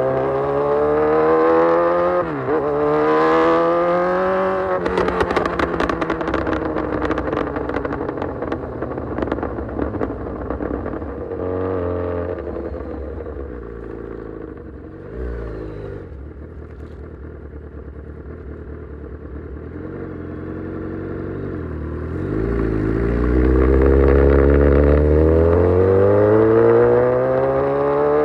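Kawasaki Z900's inline-four engine through an Austin Racing full exhaust, revving up through the gears with a quick drop in pitch at an upshift. The throttle then closes and the exhaust pops and crackles for several seconds while the revs fall. The engine runs at low revs for a while, then accelerates hard again near the end.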